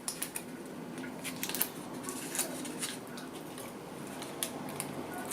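Light, irregular clicks and taps of cutlery against a plate as a tart is cut into and eaten.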